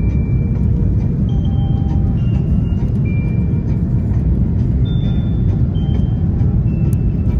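Steady cabin noise inside an Airbus A330-300 airliner in flight: a loud, even low rumble of engines and airflow, with faint short high tones over it.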